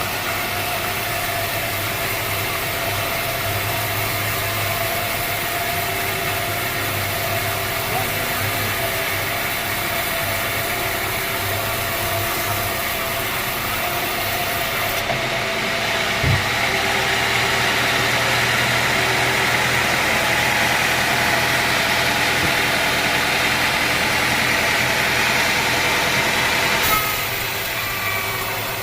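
Sawmill machinery running steadily with an engine-like hum, with a single sharp knock about sixteen seconds in.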